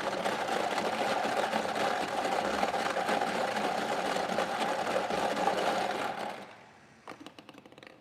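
Electric lottery ball machine running, the balls rattling as they are mixed, for about six seconds before it stops; a few light clicks follow near the end.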